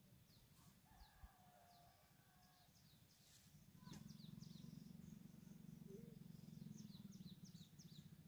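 Faint birdsong: small birds giving short, high, quick downward chirps in scattered runs, the first in the opening seconds and another near the end. A faint low steady hum comes in about halfway through.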